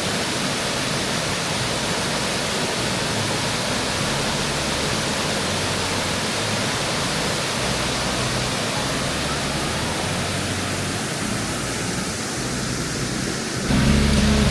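Dingmans Falls waterfall rushing, a steady, even roar of falling water.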